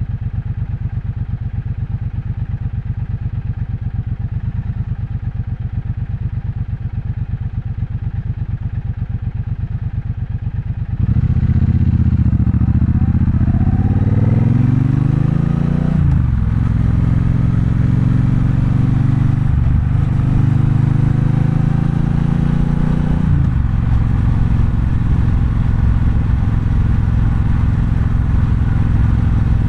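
Triumph Bonneville Bobber's 1200 cc parallel-twin engine idling with a steady pulse, then, about a third of the way in, pulling away. It climbs in pitch through the gears with three brief dips at the shifts, then settles into steady cruising.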